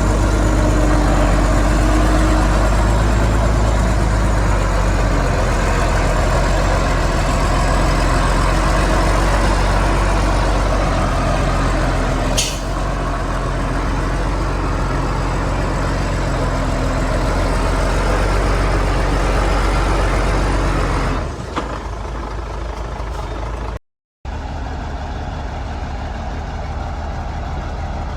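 Heavy diesel engine of a Shantui bulldozer running steadily at working revs, with a deep low hum. A single short sharp click comes about halfway through. Near the end the engine sound drops, cuts out for an instant and resumes quieter.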